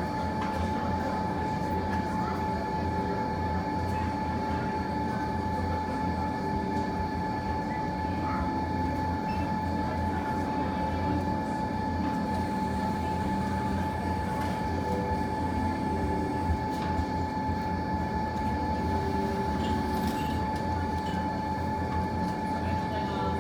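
Steady low rumble with a constant high hum running through it, and a few faint crackle-like clicks from the fireplace fire.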